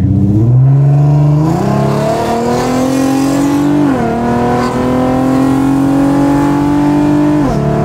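2008 Ford Mustang's engine pulling hard under acceleration, heard from inside the cabin. Its pitch climbs steadily and drops sharply at upshifts about four seconds in and near the end.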